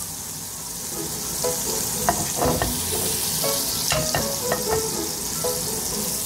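Egg-dipped bread slices frying in oil in a nonstick pan, a steady sizzling hiss.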